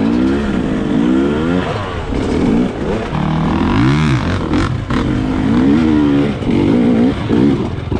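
Dirt bike engine revving up and down as the throttle is worked over rough ground, its pitch rising and falling every second or two.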